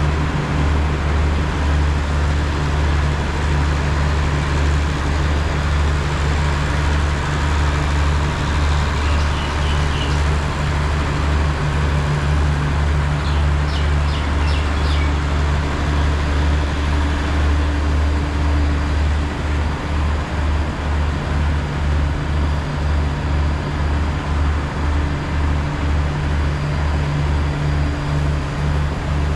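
Deep, steady hum of a large diesel engine running at idle, holding one pitch throughout, with a faint quick pulsing in the low rumble in the last third.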